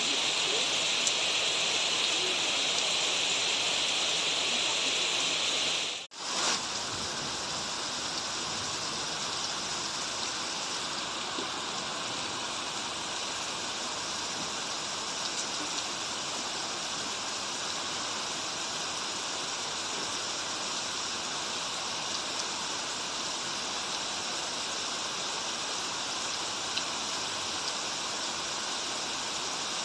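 Steady hiss of rain and running water. About six seconds in it cuts out for a moment, then comes back with a little less high hiss.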